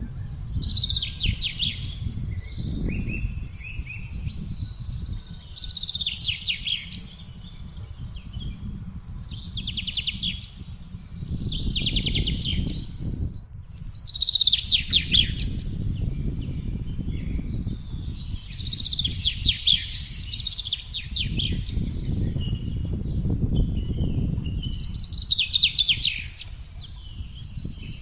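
A songbird singing short, rapid trilled phrases, one every two or three seconds, over wind rumbling and gusting.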